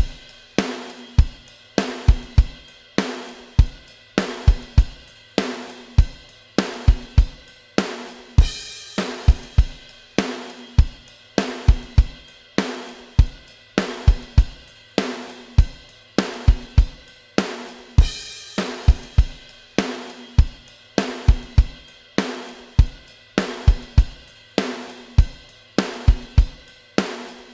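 Drum kit playing alone in a steady rock beat: kick drum, snare and hi-hat about twice a second, with cymbal crashes marking the phrases, as the intro of an instrumental metal track before the guitars come in.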